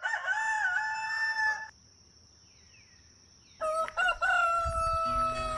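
A rooster crowing twice, two long drawn-out crows a couple of seconds apart, the second falling away at its end.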